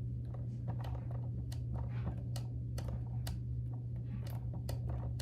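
Light, irregular clicks and taps of small plastic toy pieces being handled and fitted, over a steady low hum.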